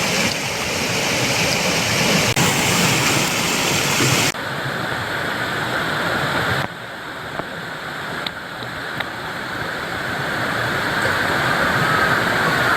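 Mountain stream running, a steady rush of flowing water. It drops suddenly in loudness about four seconds in and again near seven seconds, then slowly builds back up.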